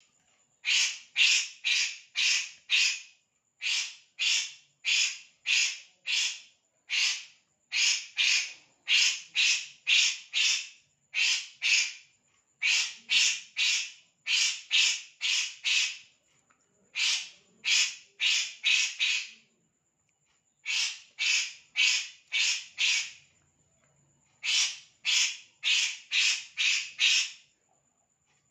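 Bird known in Indonesia as the kores (burung kores) calling: harsh, raspy notes about three a second, in runs of three to six with short pauses between them.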